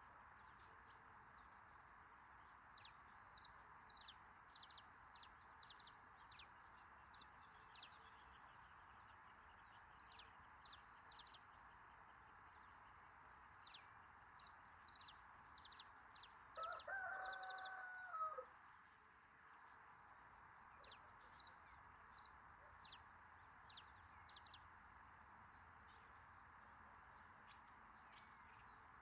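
A small bird repeating short, high chirps, about one or two a second, over a steady background hiss. About seventeen seconds in a rooster crows once, the loudest sound.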